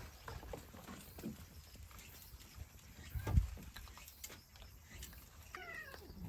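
Scattered light taps and clicks, a dull bump about three seconds in, and a short animal call near the end, most likely one of the island's cats.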